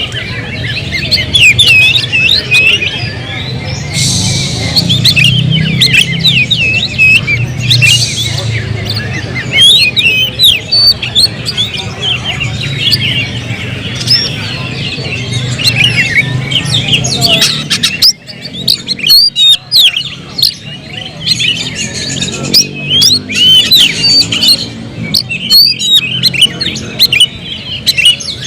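Many songbirds singing and chirping at once, a dense, unbroken tangle of overlapping high calls. A low background rumble under the birdsong cuts out about two-thirds of the way through.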